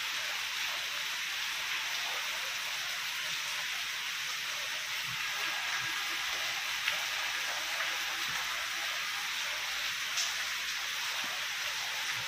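Heavy rain falling steadily on tree foliage, an even hiss of many drops.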